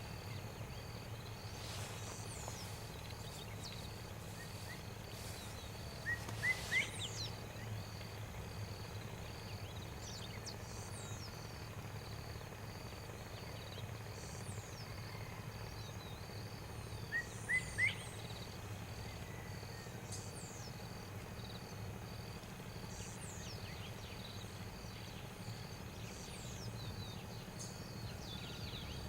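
Outdoor insect and bird ambience: an insect chirps in an even, steady pulse throughout, with scattered short bird chirps. Twice, about a fifth of the way in and again past halfway, a quick run of three rising bird notes stands out as the loudest sound.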